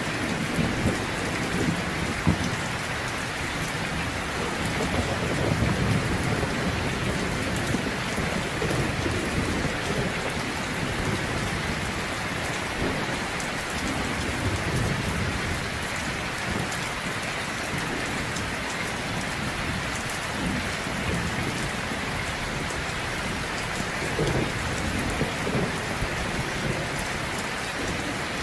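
Heavy rain falling steadily, a dense even hiss of drops, with a few low rumbles swelling beneath it now and then.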